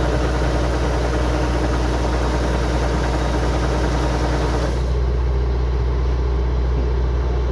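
Kubota DC105X combine harvester's diesel engine running with a steady low hum. Over it is a higher rushing noise that drops away suddenly about two-thirds of the way through, and the engine hum carries on.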